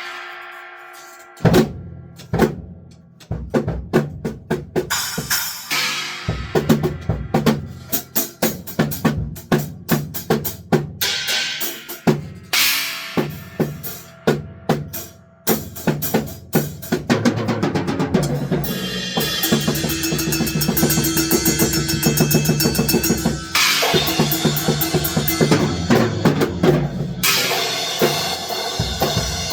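Drum kit being played, with bass drum and snare hits and several loud, long-ringing crashes on china cymbals, one of them a newly mounted Wuhan china, as a sound check. In the middle there is a dense run of fast hits.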